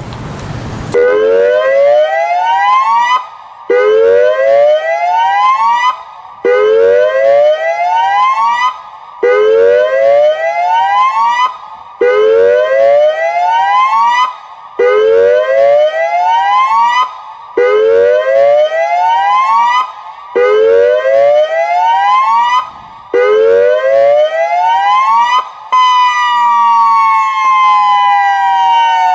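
Federal Signal Modulator electronic outdoor warning siren sounding its Hazmat test tone: nine rising whoops, each lasting under three seconds with a short break between. Near the end a long, slowly falling tone follows.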